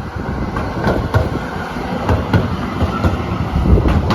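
Melbourne Z3-class tram running along the track, a steady low rumble broken by a few sharp clicks of the wheels over rail joints, about a second in and again near the end.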